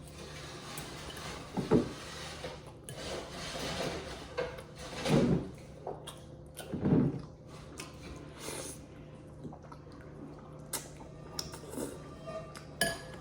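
Sounds of people eating at a table: scattered clicks and knocks of cutlery and dishes, with a few louder mouth or handling noises.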